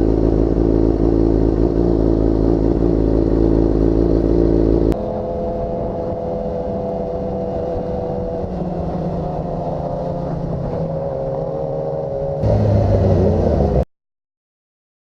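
Motorcycle engine running steady while riding. The sound changes abruptly and gets quieter about five seconds in, changes again near the end, then cuts to silence for the last second or so.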